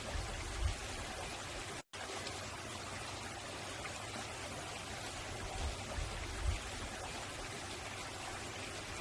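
Mountain valley stream flowing over rocks, a steady rush of water. The sound drops out for an instant about two seconds in, and a few short low rumbles come through near the start and again around six seconds.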